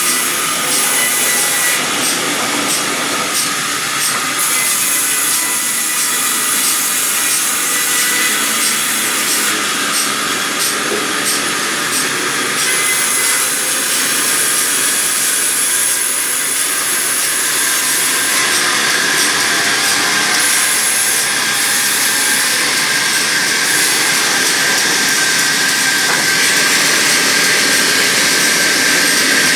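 Sawmill saw running and cutting timber: a loud, steady high whine and hiss, with stretches of rapid ticking now and then.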